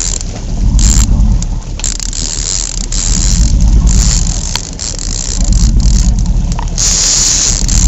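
Boat motor rumbling under wind buffeting the microphone, swelling and easing in gusts every couple of seconds.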